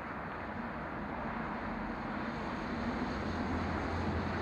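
A train drawing near: a steady rumble that slowly grows louder, with a low drone swelling about three seconds in.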